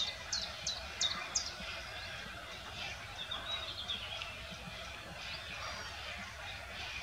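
Birds calling: a run of about five high, thin notes that each slide downward, in the first second and a half, then a quick chatter of shorter notes about three seconds in, over steady background noise.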